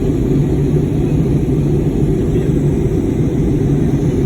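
Airbus A320neo cabin noise in flight: a steady, low rumble of engine and airflow with a constant deep hum.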